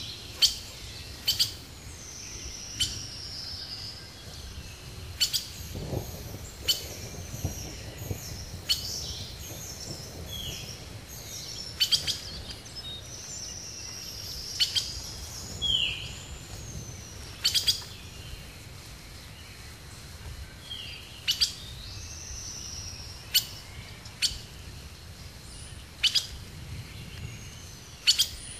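Wild birds calling: sharp high chips every second or two and several descending whistles, over a low rumble of background noise.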